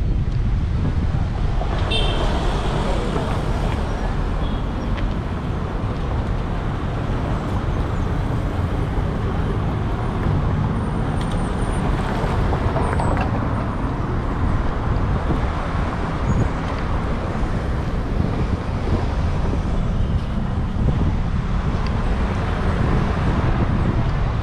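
Steady wind rumble on the microphone of a moving bicycle, with road traffic passing.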